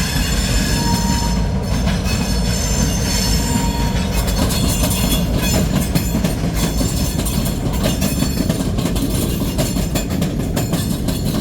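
Intermodal freight train rolling past with a steady low rumble. Thin high wheel squeal rings over it, and the wheels click over rail joints.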